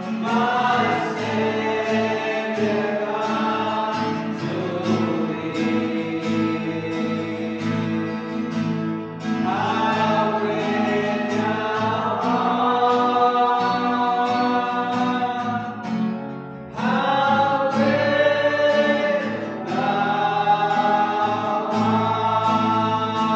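A Tamil Christian worship song: voices singing together over a sustained instrumental accompaniment, in phrases with short breaks about 9, 16 and 19 seconds in.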